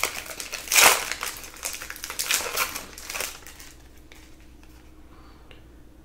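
Trading-card pack wrapper crinkling and crumpling in the hands for about three seconds, loudest about a second in, then it stops.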